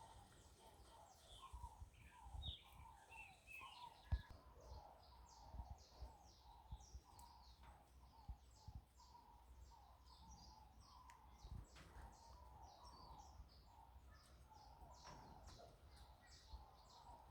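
Faint chirping of many birds, with short high chirps over lower calls that repeat throughout, and a single knock about four seconds in.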